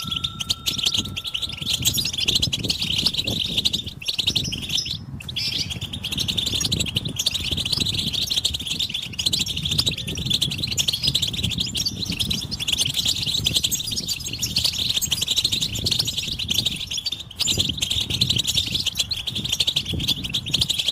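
Many European goldfinches twittering together in a dense, continuous chatter of rapid high chirps: the mating and readiness calls used to stimulate a silent male to sing. The chatter dips briefly twice, about five seconds in and again near seventeen seconds, over a low background rumble.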